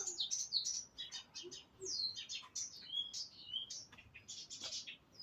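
Songbird singing: a quick, varied run of high chirps and short falling whistles, with hardly a pause.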